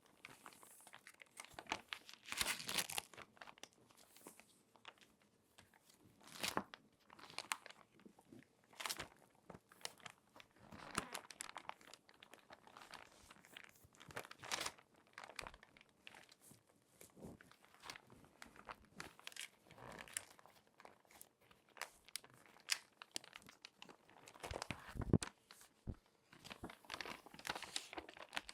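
Crinkly magazine pages being folded and creased by hand: irregular crinkles and crackles, with a low bump near the end.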